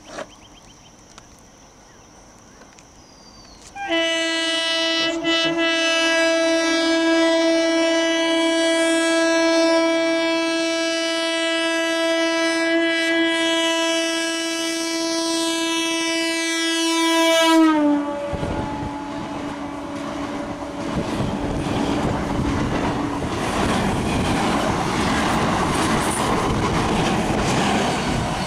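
Indian Railways BEML electric multiple unit local train sounding one long steady horn for about fourteen seconds as it approaches at speed, the pitch dipping slightly as it passes and the horn cuts off. Then the rumble and clickety-clack of its coaches running through.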